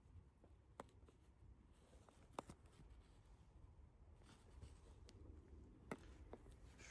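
Near silence: faint background rumble with three faint, sharp clicks spread across it.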